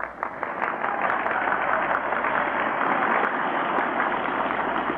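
Crowd applauding, a dense clatter of many hands, heard through an old, narrow-band recording; it eases off slightly near the end.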